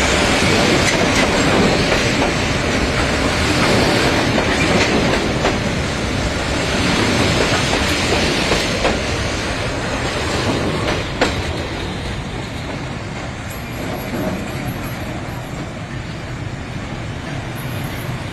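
A train running along the track: a steady noise of wheels on rails, with a single sharp clank about eleven seconds in, after which it grows a little quieter.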